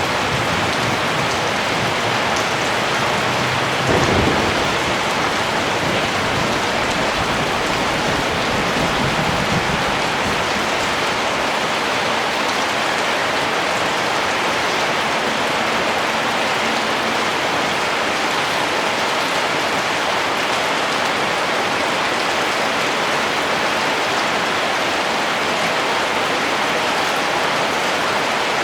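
Steady rain falling, with a low rumble of thunder that starts about four seconds in and fades away over the next several seconds.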